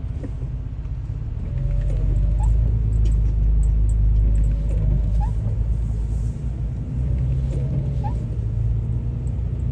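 A car driving, heard from inside the cabin: a steady low rumble of engine and road noise that grows louder about a second and a half in.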